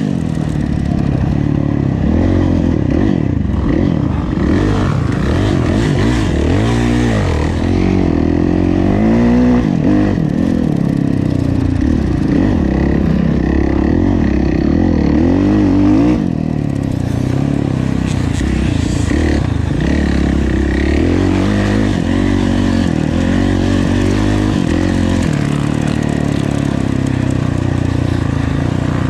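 Kawasaki KX450F motocross bike's single-cylinder four-stroke engine revving hard under race load, its pitch climbing and falling again and again as the throttle is worked through the course.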